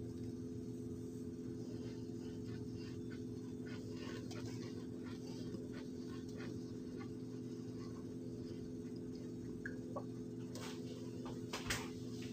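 Close-up mouth sounds of chewing a mouthful of dry cornstarch: a run of small crunching clicks, with a few sharper clicks near the end, as a metal spoon works in the plastic cornstarch container. A steady low hum runs underneath.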